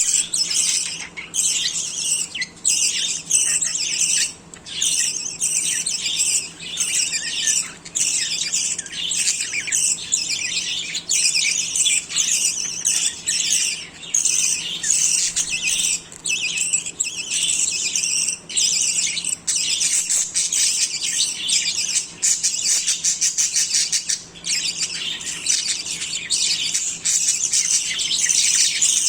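Budgerigars chattering and squawking without pause, many quick, high calls overlapping.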